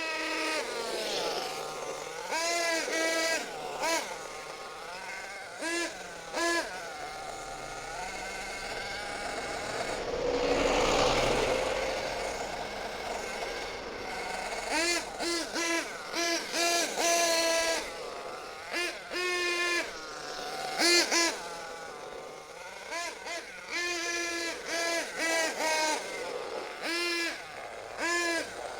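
Acme Barbarian NXL monster truck's .28 nitro engine, set rich, revving in repeated short throttle blips, its high-pitched note rising and falling with each burst between idle. A louder rushing sound swells and fades about ten to thirteen seconds in.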